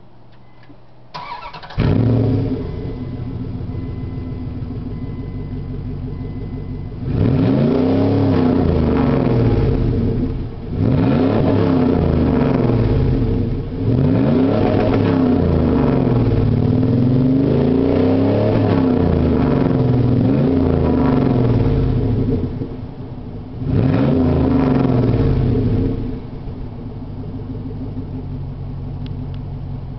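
2002 Dodge Durango R/T's 5.9-litre V8 through its stock exhaust: the starter cranks briefly, and the engine catches about two seconds in and settles into a steady idle. It is then revved up and down over and over in three spells, dropping back to idle between them and near the end.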